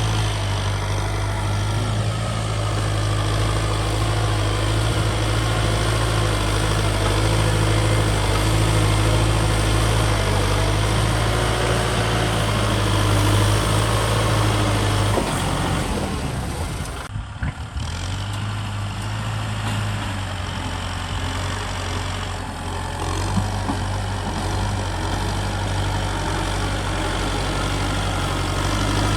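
Kubota ZT 155 DI single-cylinder diesel engine running steadily, with a brief drop and break in its note a little past halfway before it settles back.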